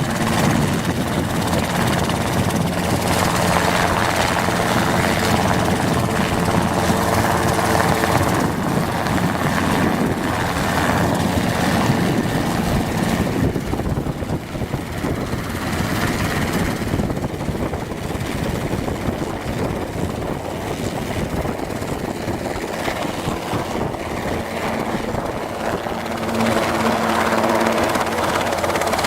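Robinson R22 helicopter running on the ground: a steady engine hum and rotor rush that eases somewhat in the middle and swells again near the end.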